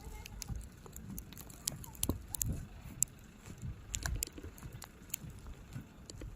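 Footsteps crunching in fresh snow, heard as irregular crackling clicks over a low rumble of wind on the microphone.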